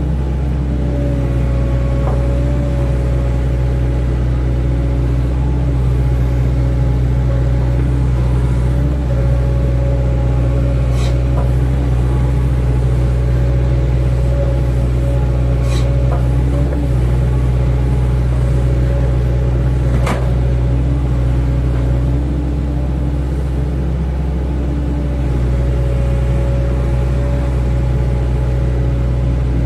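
Hydraulic excavator's diesel engine running steadily, with three brief sharp knocks in the middle.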